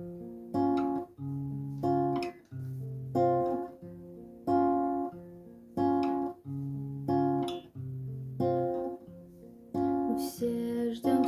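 Acoustic guitar playing a song's introduction: a repeating chord pattern, with a strong strummed chord about every 1.3 seconds and softer notes ringing between.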